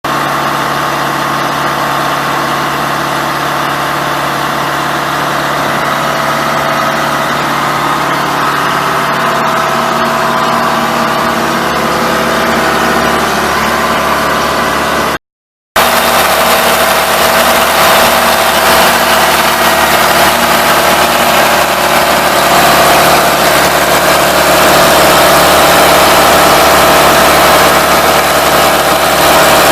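Engine of an Ingersoll Rand 175 portable air compressor running steadily. The sound cuts out completely for about half a second about halfway through, then resumes a little louder.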